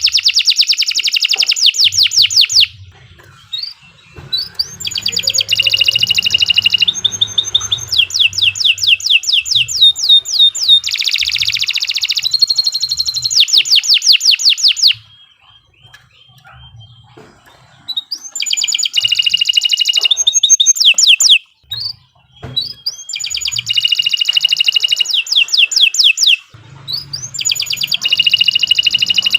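Domestic canary singing long phrases of fast rolling trills, each a rapid run of repeated high notes, phrase after phrase with short pauses between.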